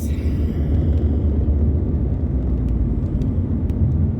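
Steady low rumble of a car's road and engine noise, heard from inside the cabin while driving, with a few faint scattered ticks.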